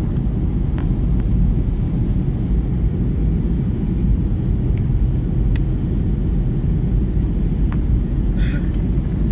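Airliner cabin noise: the steady, low rumble of the engines and airflow heard from inside the passenger cabin, with a few faint ticks and a faint voice near the end.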